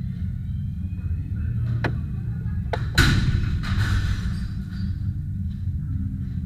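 One loud smashing crash about three seconds in, with a bright clatter of breaking pieces dying away over a second or so, after a single sharp knock. A steady low rumble of background music lies underneath.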